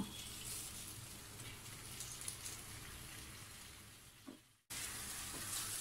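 Faint sizzling and crackling of raw chicken pieces going into a pan of hot oil and fried grated-coconut masala. The sound drops out for a moment about four and a half seconds in.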